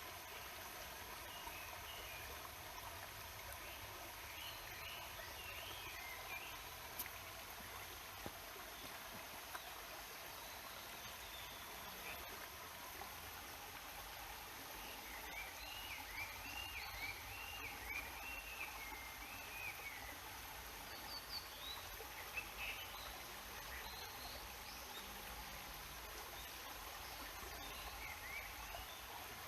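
Steady rushing of a waterfall and mountain stream, an even hiss. Over it a small songbird sings repeated up-and-down phrases: briefly at the start, in a longer run about halfway through, and in short calls later.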